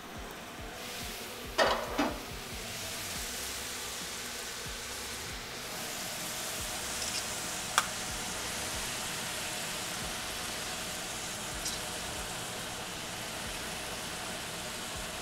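Diced chicken breast frying in a pan on a gas burner, a steady sizzle that builds over the first couple of seconds and then holds. Two knocks come about two seconds in, and one sharp click near the middle.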